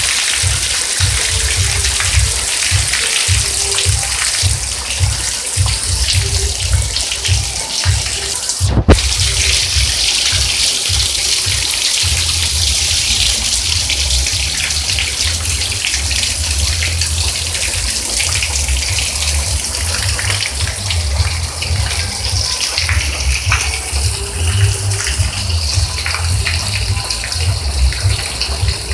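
Heavy rain pouring down and hitting the ground, a loud steady hiss with an uneven low rumble, and a single sharp click about nine seconds in.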